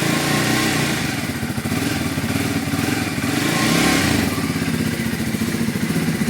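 Triumph Scrambler 400X's single-cylinder engine running at idle, with a brief rise in revs about four seconds in.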